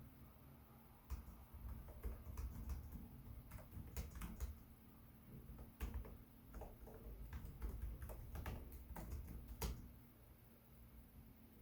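Keys clicking in irregular runs as someone types on a Lenovo Legion 5 Pro laptop keyboard, stopping a couple of seconds before the end.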